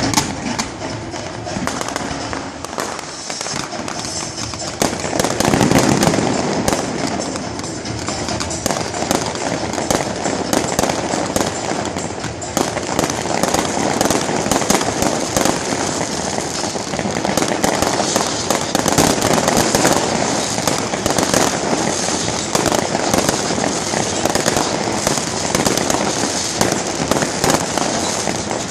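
Fireworks display: dense crackling and bangs of shells and firecrackers going off continuously, with music playing under them.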